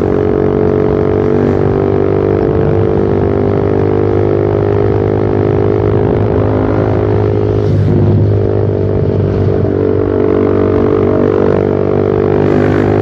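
Motorcycle exhaust through a short Pro Liner aftermarket muffler with its dB killer removed, a loud steady drone while riding. The pitch wavers briefly about eight seconds in, then settles again.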